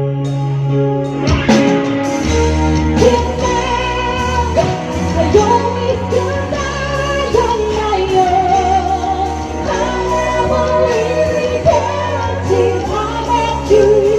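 Live band playing a song through the PA system, a singer holding long wavering notes over bass and rhythm accompaniment.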